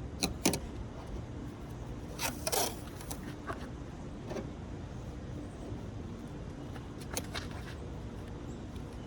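A few short metallic clinks and jingles, the longest cluster about two seconds in, over a low steady rumble.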